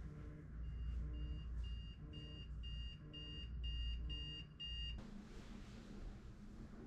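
Electronic alarm beeping, short high beeps about twice a second, cutting off suddenly about five seconds in.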